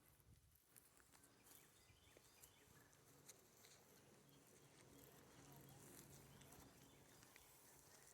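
Near silence: faint outdoor background with a low steady hum and scattered faint ticks.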